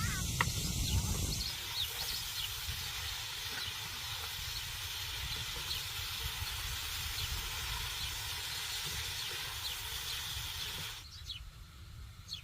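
A steady hiss with faint bird chirps now and then. It drops away abruptly near the end.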